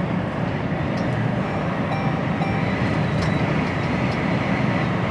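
Steady engine and road noise heard inside the cab of an HGV lorry driving along, a continuous low rumble.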